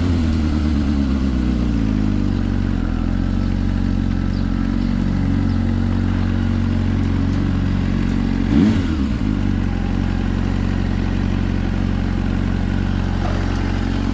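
Suzuki GSR400's inline-four engine through a Yoshimura exhaust: revs drop over the first couple of seconds, then it runs steady at low revs. About two-thirds of the way through there is one quick, short throttle blip.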